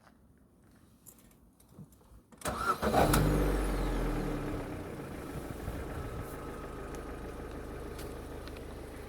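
Ford Focus II engine cranked by the starter and catching about two and a half seconds in, flaring up briefly before settling to a steady idle.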